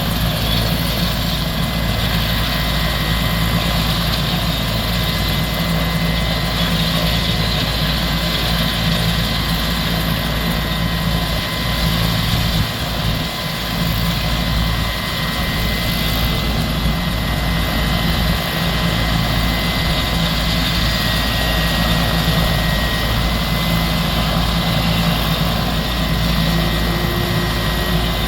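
Air ambulance helicopter running steadily, its turbine engines and rotor making a loud, even sound with no change in level.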